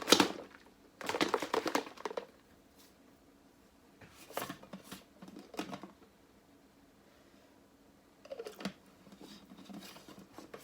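Protein shake being shaken hard in a closed container: a fast rattling, sloshing run that stops briefly, starts again and ends about two seconds in. Later come a few quieter knocks and handling sounds.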